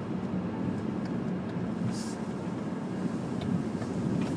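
Car running, heard from inside the cabin as a steady low engine and road rumble, with a brief hiss about two seconds in.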